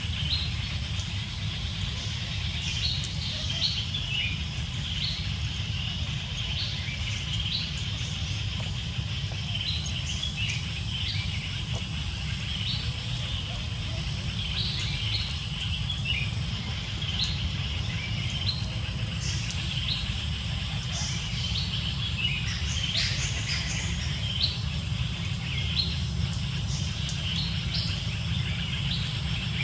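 Birds chirping in short, separate calls again and again, over a steady low rumble.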